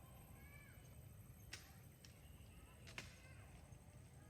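Near silence: low outdoor background with two faint ticks and a few faint, short high chirps.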